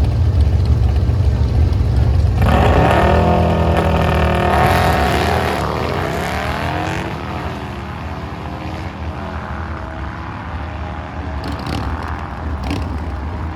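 Drag-racing engines rumbling low at the line, then revving hard about two seconds in as they launch and accelerate away. The engine note sweeps up and drops back several times, then fades off down the track, leaving a lower rumble.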